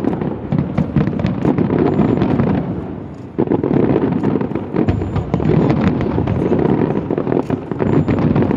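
Fireworks display: a dense, continuous crackle of rapid bursts and pops. It eases off briefly about three seconds in, then picks up again abruptly.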